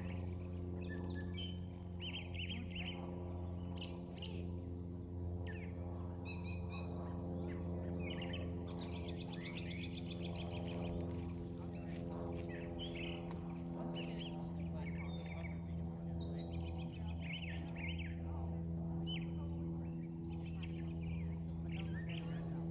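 Several birds singing and chirping outdoors, with quick repeated chirps and short trills, over a steady low hum.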